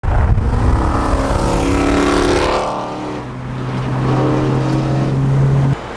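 Performance car engine revving through its exhaust: the pitch climbs for about two and a half seconds, falls back, then climbs again over a steady low drone, cutting off suddenly near the end.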